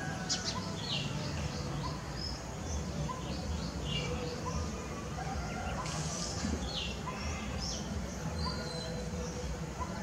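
Outdoor birdsong: several small birds chirping and twittering in short high notes, with a faint low "tuk" note repeating about once a second, typical of a coppersmith barbet calling. A steady low rumble runs underneath.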